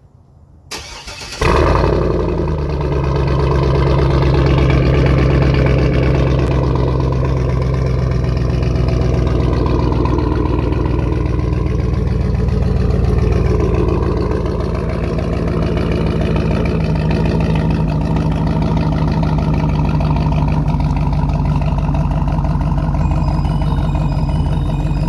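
GMC Denali truck engine cranking briefly and catching about a second in, then idling steadily.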